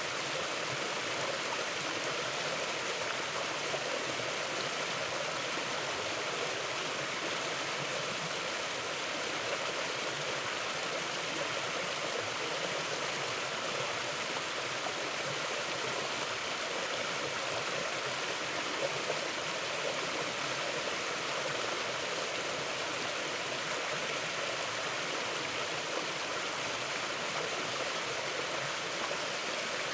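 Mountain river flowing steadily over rocks, an even rushing and gurgling of water.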